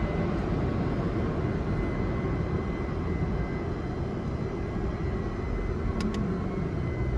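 Steady rushing machine noise with a faint, steady high whine, and two short clicks about six seconds in.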